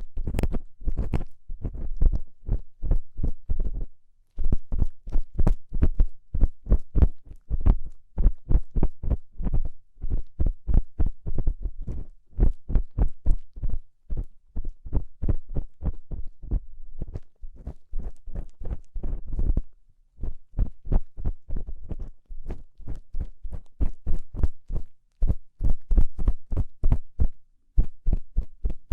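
ASMR ear-cleaning strokes of an ear pick scraping and rubbing inside a microphone's ear, close up and muffled, at about three or four strokes a second with brief pauses between runs.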